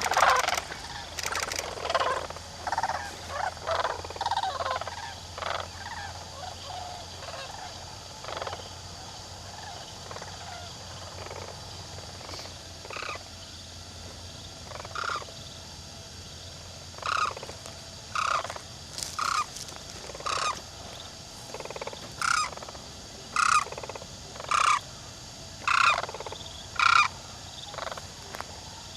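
A flock of large birds calling: a dense, overlapping chorus of short calls at first, thinning to separate loud calls about one a second in the second half.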